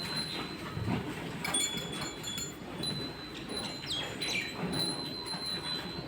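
Short, high, thin chirping or chiming tones, a few of them falling in pitch about four seconds in, over a steady low background noise.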